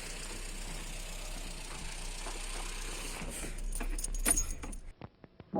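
Renault 11's Cléon engine idling, then switched off with the ignition key: keys jangle and click near the end and the engine noise cuts out about five seconds in, leaving near silence.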